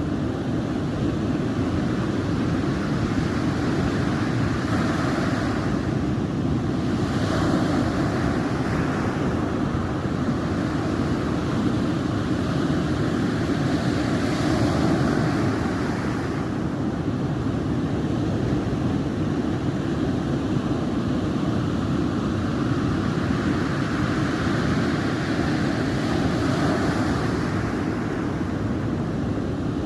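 Sea waves breaking and washing on a shore, the hiss swelling up every several seconds over a steady low rumble of wind on the microphone.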